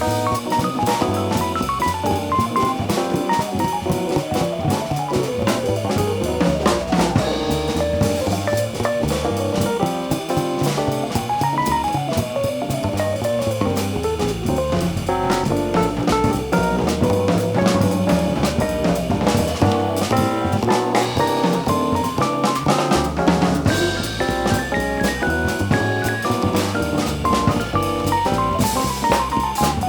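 Live jazz band playing: a melodic line of quick running notes over drum kit with bass drum, snare rim clicks and cymbals, and a bass line.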